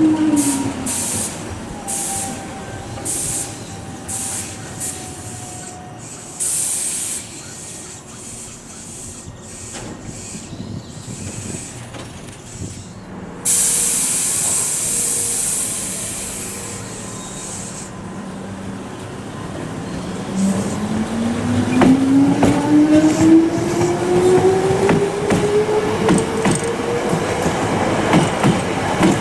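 Nose Electric Railway 5100-series electric train stopping at and pulling out of a station. A falling whine as it comes to a halt is followed by short hisses of air and, about halfway through, a long loud air hiss. Then its traction motors start a steadily rising whine as it departs.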